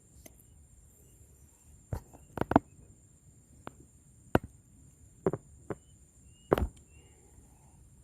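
A series of about eight sharp, irregular knocks and taps over a few seconds, with faint background hiss between them.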